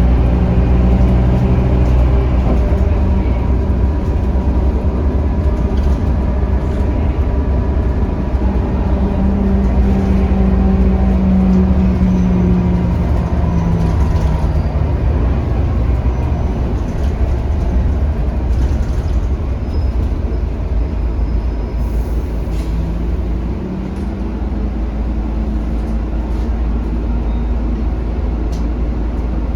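Scania K310UB city bus's five-cylinder diesel engine running under way, heard from on board. The engine's pitch rises and falls as it pulls and changes gear, and it eases off for a moment about two-thirds of the way through before pulling up again.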